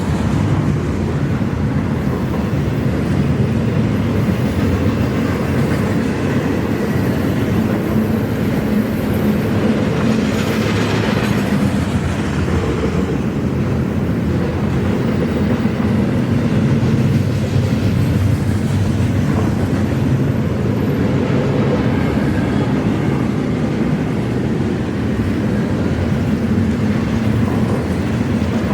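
An eastbound intermodal freight train's cars rolling past, with a steady rumble of wheels on rail and some clickety-clack.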